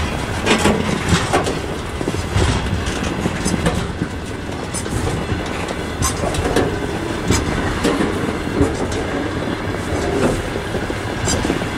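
Freight train of open gondola wagons rolling past close by: a steady rumble of steel wheels on rail, with irregular clacks and clanks as the wheelsets cross rail joints.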